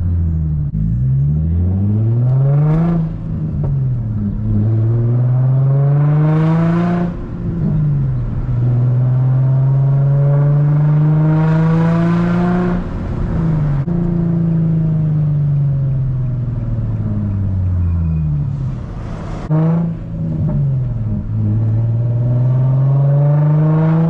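Infiniti G35's 3.5-litre V6, straight through a muffler and resonator delete, revving up through the gears of its six-speed manual. The pitch climbs and drops at each upshift about 3, 7 and 13 seconds in, falls slowly for several seconds as the car slows, then climbs again through two more pulls near the end.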